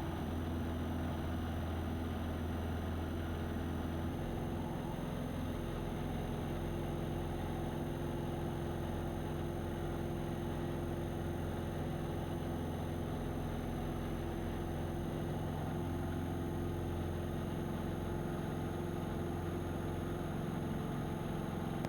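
Single-engine piston light airplane's engine and propeller running at full takeoff power, a steady drone heard from inside the cabin; its pitch shifts slightly about four seconds in.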